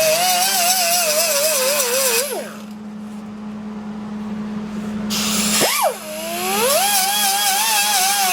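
High-speed handheld grinder running under load, its whine wavering in pitch as it is pressed on the work. It spins down about two seconds in, leaving a steady low hum, and near six seconds it is restarted and winds back up to speed.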